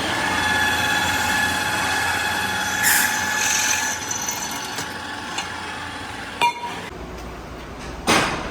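Metalworking shop machinery running with a steady whine that fades after about four seconds, and a few sharp metal knocks, the last near the end.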